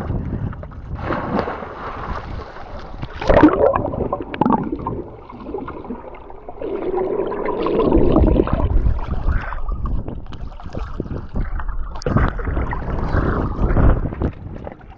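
Sea water splashing and sloshing around swimmers, uneven in level, with a louder splash about three and a half seconds in.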